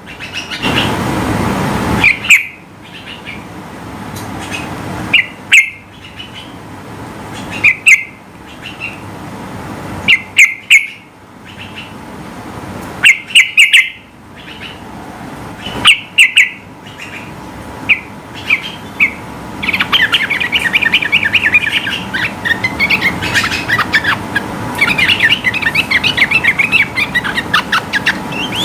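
Yellow-vented bulbul (trucukan) singing: short bursts of two to four loud, bright chirps every couple of seconds. About two-thirds of the way through, it breaks into a long, fast, unbroken chattering run (the 'ropel' song).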